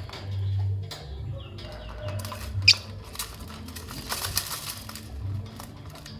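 Lovebirds fluttering and shuffling about, with scratchy clicks, one short sharp squeak about two and a half seconds in, and a burst of wing flapping around four seconds in.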